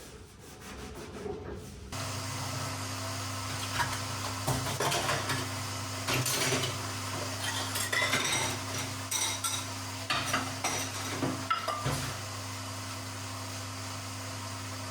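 Dishes and cutlery clinking and clattering as they are handled, with many sharp clinks from about 4 to 12 seconds in over a steady low hum.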